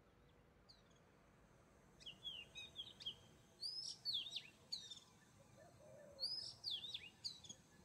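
A songbird singing in quick phrases of high chirps and whistles. It starts about two seconds in and pauses briefly near the middle.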